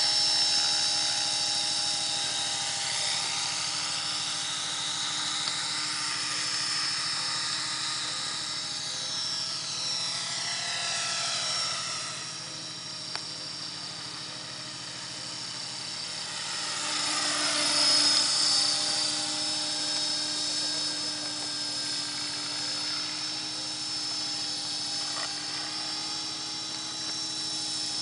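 Align T-Rex 500 electric RC helicopter in flight: the steady high whine of its motor and rotor, with the pitch sliding up and down as it moves about. It grows quieter about fourteen seconds in and is loudest about eighteen seconds in.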